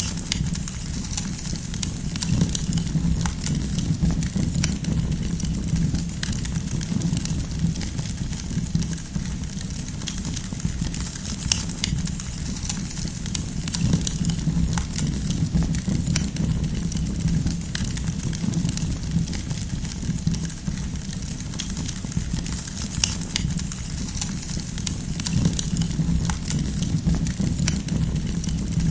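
Campfire burning steadily, with a constant low flame rumble and frequent sharp pops and crackles of burning firewood.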